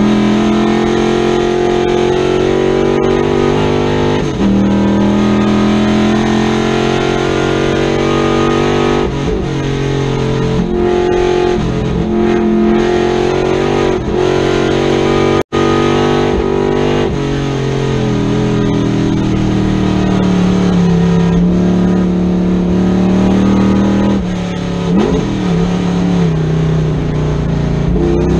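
1965 Chevrolet Corvette Stingray's big-block V8 at full race pace, heard from inside the cabin. The engine note rises and falls through the gears, with quick throttle blips on downshifts and a steady drone on the straights. The sound cuts out for a split second about halfway.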